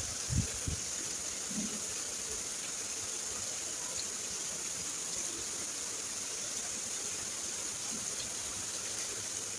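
Steady rain falling, an even hiss. A few short low thumps in the first two seconds, the loudest under half a second in.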